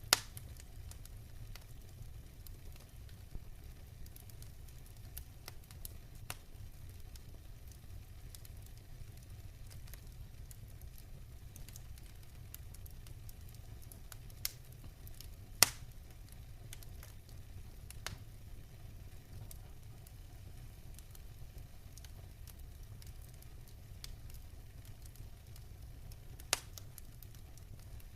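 Wood fire in a fireplace crackling, with a handful of sharp pops (the loudest near the start, about halfway through and near the end) over a steady low rumble.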